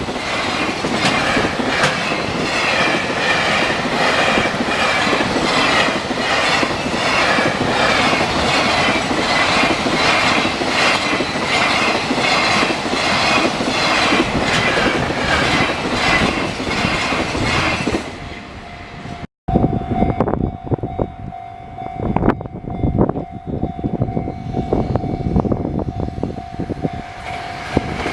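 A train running past over a level crossing, its wheels clattering over the rail joints in an even rhythm. After an abrupt cut, irregular knocks of wheels over the joints continue under a steady tone.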